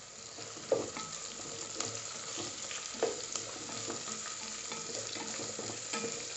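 Onions, green chillies and curry leaves sizzling in hot ghee in a pot, stirred with a wooden spatula that knocks and scrapes against the pot a few times.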